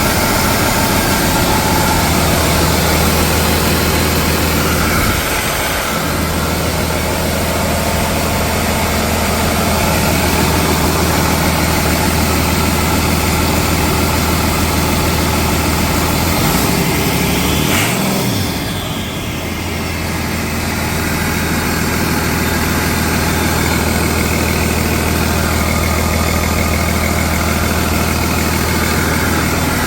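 2008 Cummins ISB 6.7L inline-six turbo-diesel idling steadily on a test run, briefly revving up about 17 seconds in and dropping back to idle.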